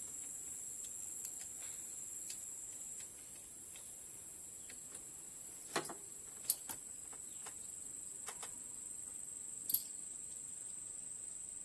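Steady high-pitched insect drone like crickets, with a few sharp clicks, two of them close together about halfway through and one loud one near the end.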